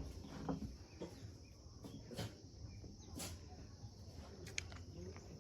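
Quiet rural outdoor background with a few soft scattered clicks and a brief high bird chirp near the end.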